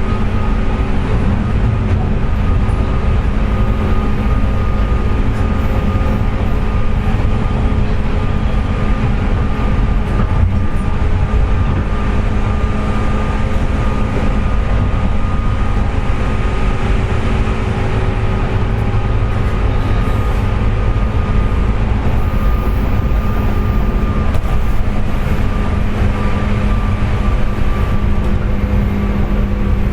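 Interior running sound of a JR West 201 series electric train at speed: a steady rumble of wheels on rail. Over it sits a steady whine with several tones, the "jet sound" this car makes while running because of electrical corrosion in its motor bearings.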